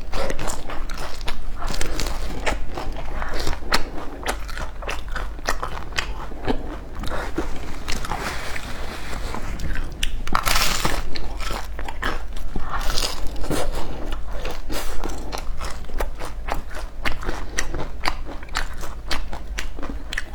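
A person biting and chewing crunchy food, with many sharp crunches throughout and one loudest crunch about half way through.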